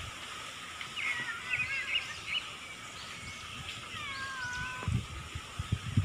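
Birds calling outdoors: several short warbling chirps, then one longer call that glides down in pitch about four seconds in. Under them run a faint steady hum and scattered low thumps.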